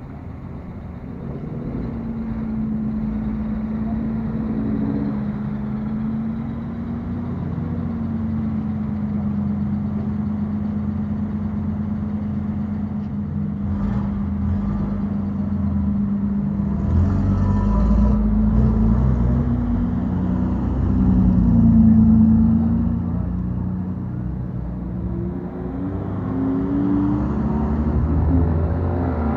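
Engines of modified bosozoku-style cars running with loud exhausts as they roll out, one engine note wavering with light throttle. The revs rise a little past the middle, peak about two-thirds of the way in, and another engine revs up near the end.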